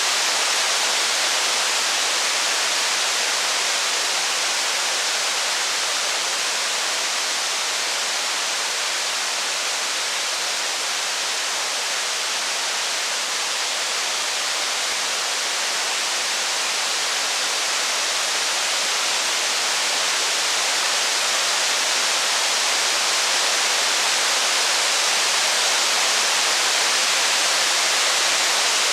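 Steady heavy rain, an even hiss with no separate drops, crackles or thunder standing out.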